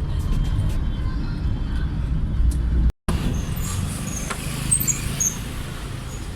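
Steady low vehicle rumble with background noise. It drops out suddenly for a moment just before three seconds in, then resumes with a few faint high chirps.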